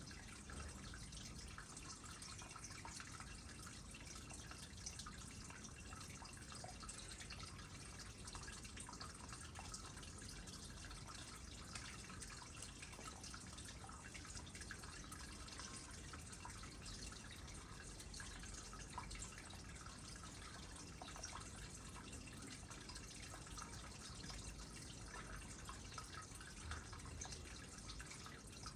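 Small water trickle into a pond: a quiet steady trickle with many small drips and plinks.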